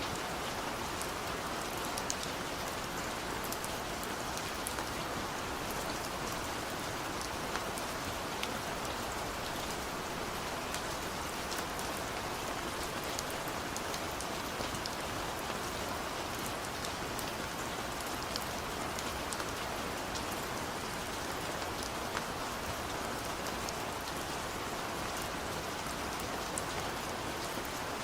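Heavy rain falling steadily in a forest, an even hiss with many close drops ticking.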